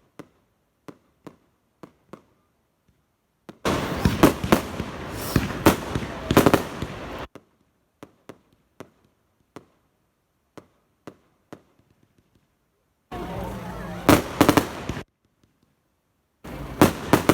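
Fireworks going off: scattered single sharp bangs, broken by stretches of dense crackling and popping that start and stop abruptly, about four seconds in, around thirteen seconds, and near the end.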